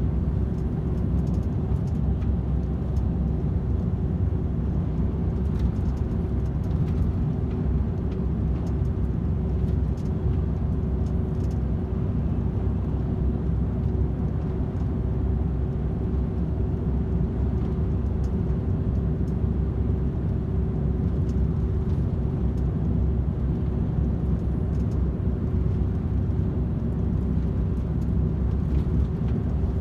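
DAF XF 510 truck cruising steadily on the motorway: a constant low drone of the PACCAR MX-13 straight-six diesel and tyre noise, with a steady hum running under it.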